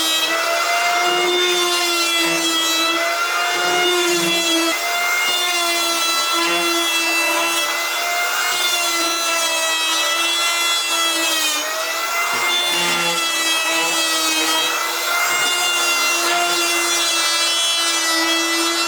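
Power saw running steadily through wood, its motor holding a continuous whine that sags slightly in pitch now and then as the cut loads it.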